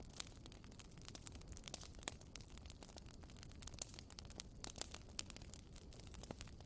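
Bonfire crackling: irregular sharp pops and snaps from burning wood over a low steady hiss, with a few louder pops about four seconds in.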